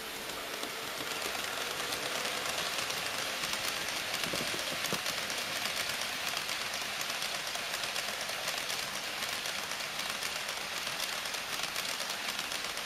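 HO-scale model freight train, a pair of DD51 diesel locomotives hauling tank wagons, running along the track. It makes a steady rolling rattle of wheels on rail full of fast small clicks, growing louder over the first two seconds.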